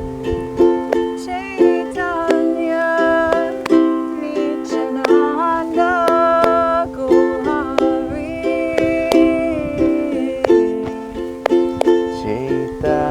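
Ukulele strumming a gentle kirtan tune over a steady held drone note, with a higher melody line gliding between notes above it.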